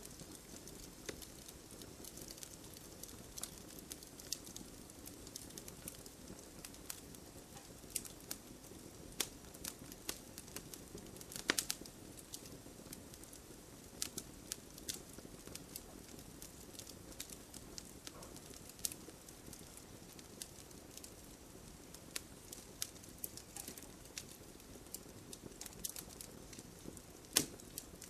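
Wood fire burning in a fireplace: a soft steady hiss with irregular sharp crackles and pops, a few louder snaps about a third of the way in and near the end.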